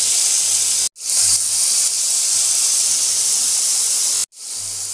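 Chicken tikka skewers sizzling in hot oil in a frying pan: a loud, steady hiss that breaks off for an instant twice.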